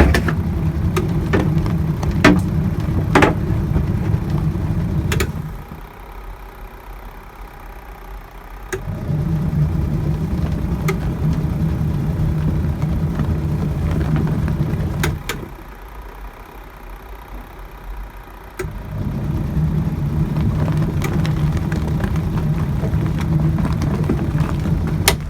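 Hisense twin-tub washing machine's wash motor and pulsator churning water and clothes. It runs for about six seconds, stops for about three, then starts again, three times in all, in the alternating run-and-pause pattern of a twin-tub wash cycle. A few light clicks come in the first few seconds.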